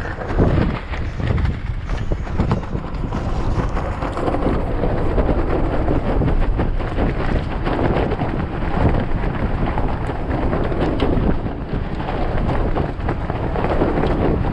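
Strong desert windstorm wind blowing in gusts, buffeting the microphone with a loud, low rumble.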